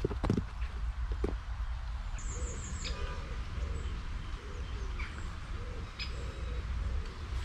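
A bird cooing, a series of short low calls about two a second starting about two seconds in, with a brief high chirp from a small bird over it. A few sharp knocks at the start.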